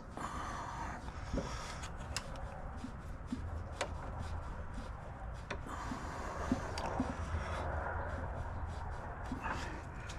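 Hands and tools working the carburetor loose from a small snowblower engine: scattered light clicks and rubbing of metal parts.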